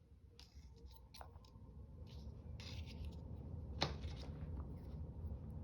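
Faint rustling and light clicks of small paper pieces and tools being handled at a craft table, with one sharper click about four seconds in.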